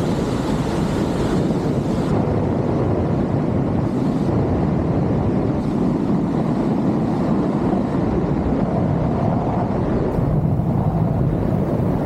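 Loud, steady rush of wind over the microphone of a BASE jumper in freefall, tracking in a two-piece tracking suit.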